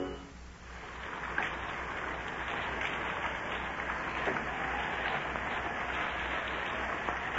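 Rain sound effect for a radio drama: a steady hiss of heavy rain fading up just after the music ends, then holding even with a few faint pattering clicks.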